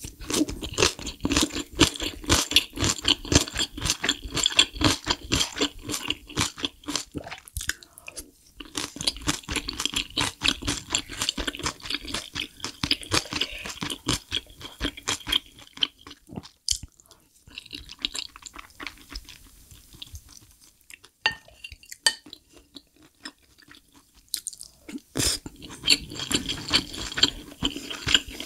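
Close-miked chewing of spicy mapo tofu and shrimp fried rice: wet mouth sounds in rapid clicks, easing off about two-thirds of the way through and picking up again near the end.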